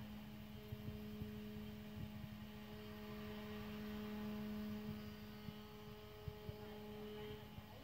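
CNC lock-milling machine for aluminium window profiles running with a steady motor hum. A higher tone drops out near the end, and there are faint scattered ticks.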